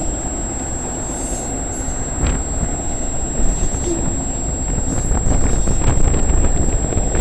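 Cars of a CN intermodal freight train rolling past at speed: a steady loud rumble of steel wheels on rail with scattered clacks. Wind buffets the microphone.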